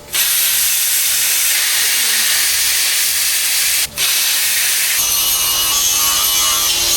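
A power tool cutting steel, a loud steady hissing cutting noise. It breaks off briefly about four seconds in and starts again, and about a second later a thin whine joins it.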